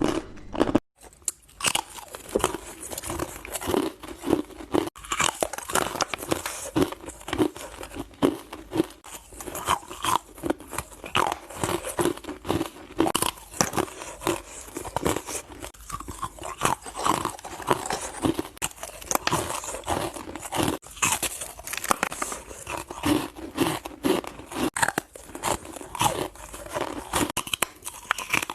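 Ice being bitten and chewed close to the microphone: a rapid, irregular stream of loud crunches, with a brief break about a second in.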